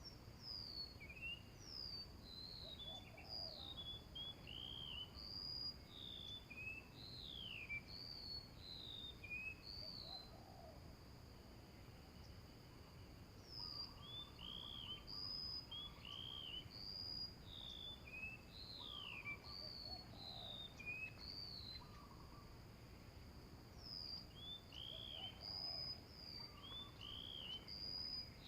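Small birds calling, with many quick, repeated, arched chirps coming in clusters, over a steady high-pitched insect drone. Faint low notes recur every few seconds.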